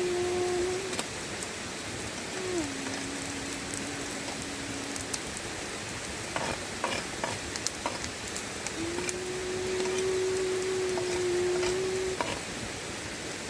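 Food sizzling and frying on a hot flat stone over a campfire, with a cluster of sharp pops in the middle. A steady low whine sounds through part of it; it drops in pitch about two seconds in, stops, and comes back near the end.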